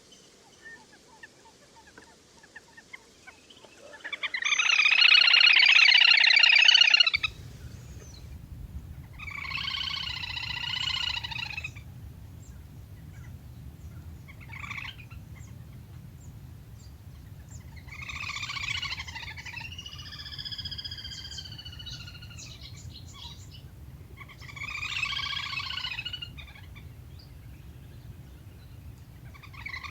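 Little grebe giving repeated bursts of trilling calls, each lasting one to three seconds; the first, about four seconds in, is the loudest. From about seven seconds in, a steady low hum runs beneath the calls.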